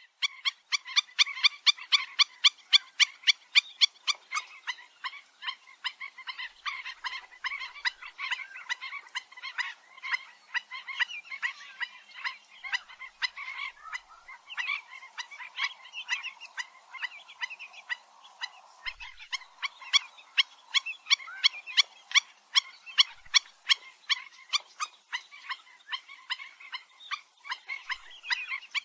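Black-winged stilts (gagang bayam) calling: sharp, dog-like yapping notes repeated several times a second, with a busier stretch of overlapping calls in the middle.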